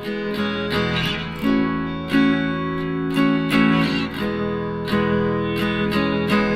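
Background music of strummed acoustic guitar chords with a steady rhythm.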